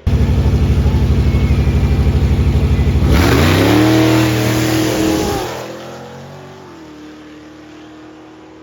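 Drag racing car's engine running loud with a choppy, pulsing note at the line. About three seconds in it launches, its pitch climbing as it accelerates away, and it fades off within a few seconds, leaving a faint steady engine drone.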